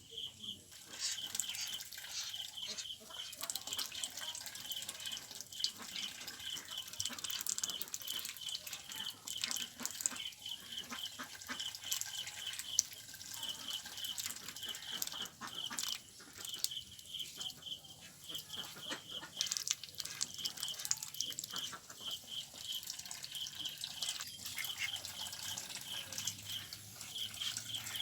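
Water splashing and dripping as many small, sharp clicks and patters, with a high pulsing note repeating evenly several times a second throughout.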